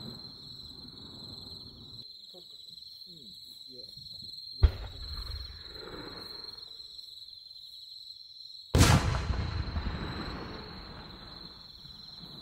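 Aerial firework shell: a sharp crack as it is launched about four and a half seconds in, then some four seconds later a loud boom as it bursts, echoing and fading over a few seconds. Insects chirp steadily throughout.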